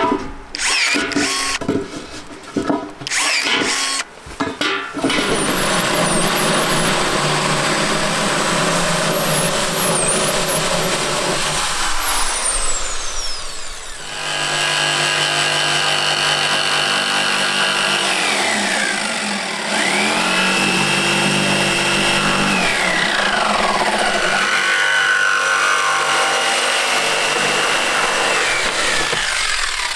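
An electric power tool runs in several long bursts, its motor note sliding down as it winds down between them. Rapid scraping or knocking strokes come in the first few seconds.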